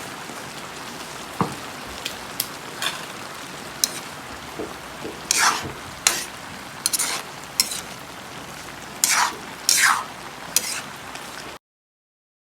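Food sizzling in hot oil in a pan, with a spatula stirring and scraping against the pan in irregular strokes, about a dozen of them. The sound cuts off suddenly near the end.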